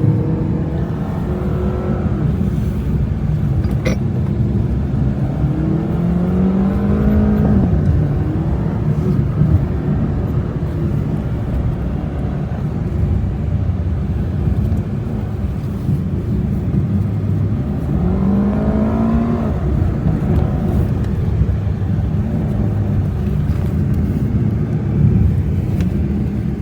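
Car driving, heard from inside the cabin: steady road and engine rumble, with the engine note rising twice as the car speeds up.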